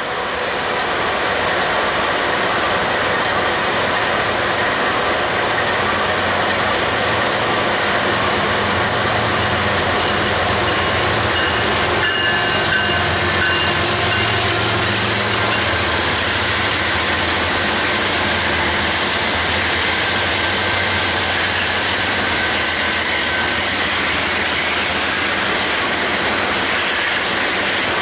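BNSF double-stack intermodal freight train passing: its diesel locomotives go by first, then the container well cars, with a loud, steady low rumble of engines and wheels on rail. A brief high tone sounds about twelve seconds in.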